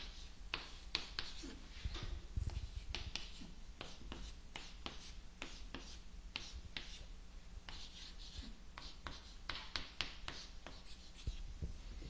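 Handwriting with a pen or marker: many short, irregular scratches and taps of strokes as working is written out.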